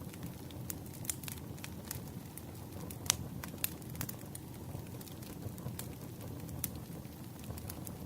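Campfire of logs burning: a steady low rumble with irregular sharp crackles and pops, the loudest about three seconds in.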